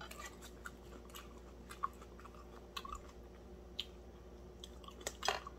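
A person chewing and eating close to the microphone: faint wet mouth clicks, with a few sharper clicks about two seconds in, about four seconds in and twice near the end.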